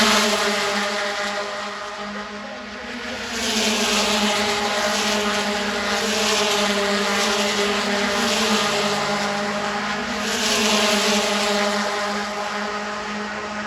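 Race car engines running at speed on track, one steady engine note throughout. A hiss swells louder three times, near a quarter of the way in, in the middle, and toward the end.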